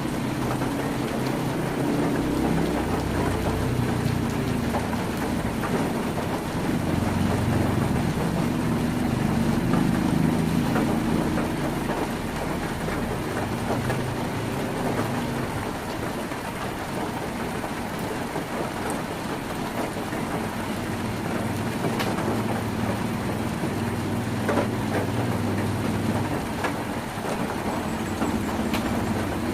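Heavy rain drumming steadily on a tin roof, a dense low patter with a few sharper single drop hits near the end.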